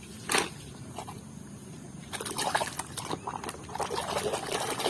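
Water sloshing and splashing in a basin as a muddy toy vehicle is scrubbed clean by hand, starting in earnest about two seconds in, with small plastic knocks.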